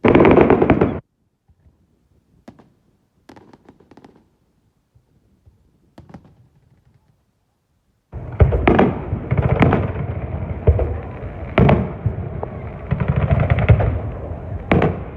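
Fireworks exploding. There is a loud burst at the start, then a few faint pops for several seconds, and from about halfway a rapid, loud barrage of bangs and crackling.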